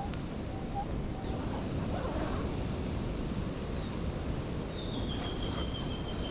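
Steady outdoor wind noise with two thin, drawn-out high whistled bird calls, one about halfway through and a slightly falling one near the end.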